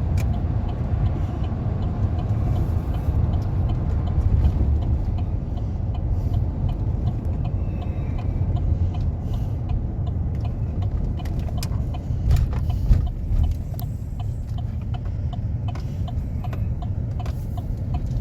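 Inside a moving vehicle towing a boat: steady low road and engine rumble, with a run of faint light ticks and rattles over it.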